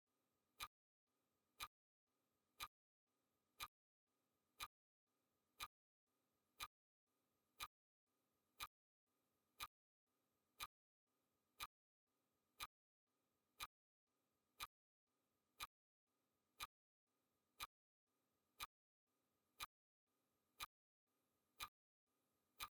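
Clock ticking sound effect: a faint, sharp tick once a second, perfectly even.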